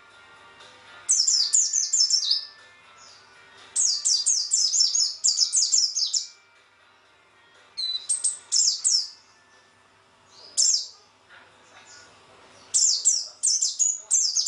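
Pleci (white-eye) songbird singing: bursts of rapid, high chirping notes, five phrases with short pauses between them.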